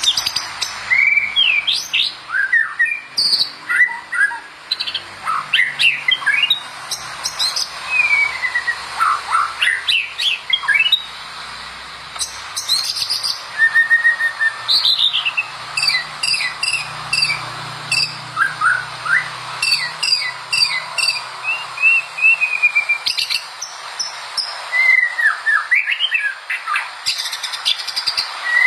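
White-rumped shama singing a long, varied song: clear whistled notes sliding up and down, mixed with quick, sharp chattering notes, broken by short pauses.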